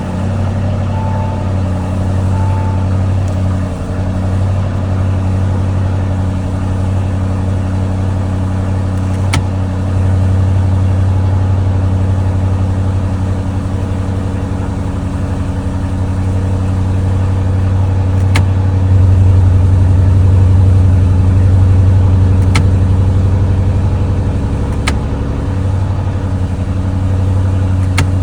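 Lamborghini Urus twin-turbo V8 idling through its exhaust with a deep, steady low note, swelling slightly louder a few times. A few short beeps sound near the start.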